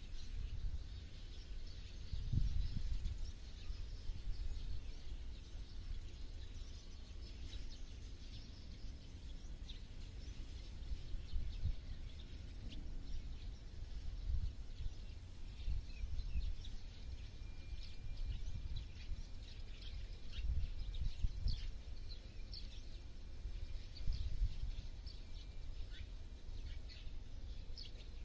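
Wild birds chirping and calling, many short chirps scattered throughout and one thin held note for a few seconds past the middle, over an uneven low rumble.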